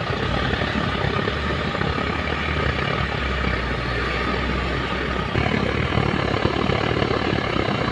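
Diesel engine of a JCB 3DX backhoe loader running steadily at idle, growing slightly louder about five seconds in.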